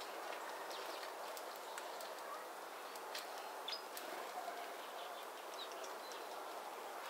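Small birds chirping outdoors: scattered short, high chirps and ticks over a steady background hiss.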